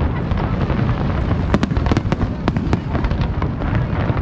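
Fireworks display: many sharp bangs and crackles, several a second, over a continuous low rumble of bursts.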